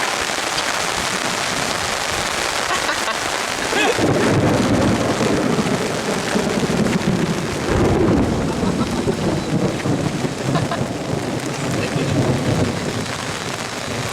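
Heavy rain pouring steadily. About four seconds in, a low, fluctuating rumble joins it and lasts most of the rest.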